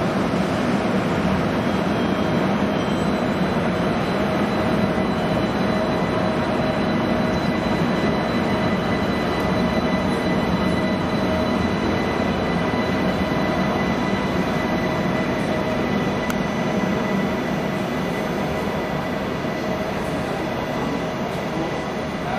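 ICE 1 (DB class 401) high-speed train pulling slowly away, its power car giving a steady hum with a few constant tones held over it. It grows slightly quieter near the end.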